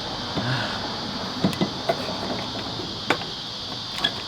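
A few separate metallic clicks and knocks from spanner work on a car's engine mount bolts, over a steady high hiss.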